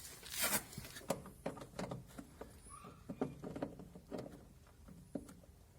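Irregular light clicks and small knocks of hand tools working at the retaining clips of a washing machine's shock-absorber mounts, most frequent in the first two seconds and sparser after.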